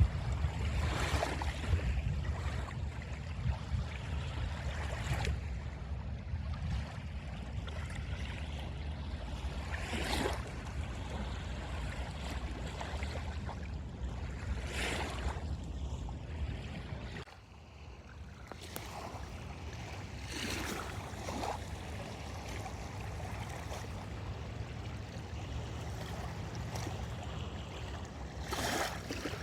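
Wind buffeting the microphone with a low rumble, over small lake waves washing onto the beach every few seconds. The wind drops for a moment just past halfway.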